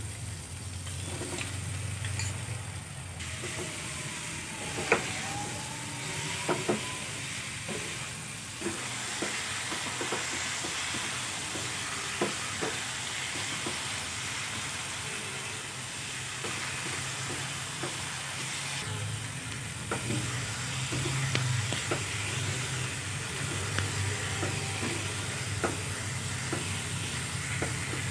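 Soya chunks and potatoes sizzling in a non-stick kadai while a wooden spatula stirs them, with scattered taps and scrapes of the spatula against the pan, the loudest about five seconds in. A low steady hum runs underneath.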